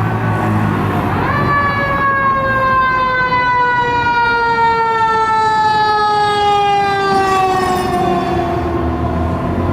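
Fire engine's mechanical siren winding up sharply about a second in, then slowly coasting down in pitch over the following seconds.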